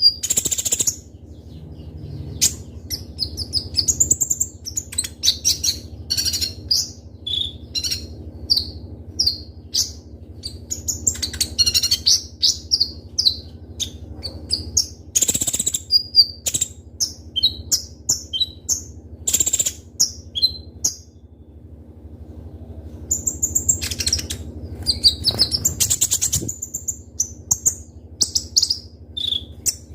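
A kolibri ninja (a sunbird) singing in rapid runs of sharp, high chirps and trills, with a short pause about two-thirds of the way through. A faint steady hum lies underneath.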